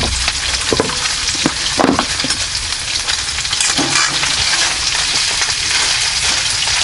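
Sausages sizzling and crackling as they fry in oil in a pan, with a few light knocks of a utensil against the pan.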